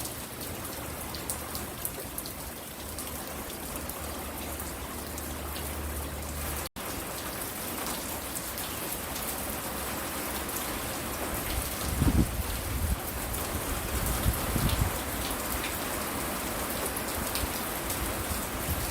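Steady rain falling, with drops ticking on surfaces close by. The sound cuts out for an instant about seven seconds in, and a few low thumps come in the second half.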